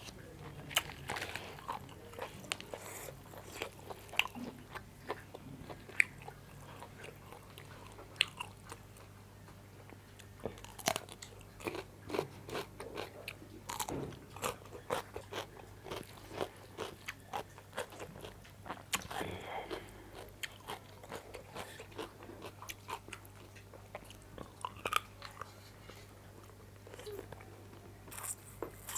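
A person eating close to the microphone: chewing and biting with crunchy bites and wet mouth sounds, broken by many irregular sharp clicks, over a faint steady low hum.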